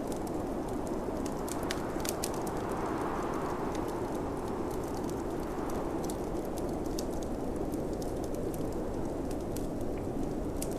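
A wood fire crackling, with frequent small sharp pops, over the steady rushing wind of a snowstorm that swells and eases in gusts.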